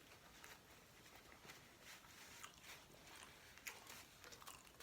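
Faint close-up chewing of a soft tortilla taco, with scattered wet mouth clicks and a few sharper ones near the end.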